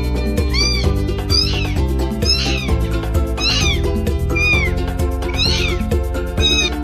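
A domestic cat meowing over and over, about seven short meows roughly a second apart, each rising and falling in pitch, over loud background music.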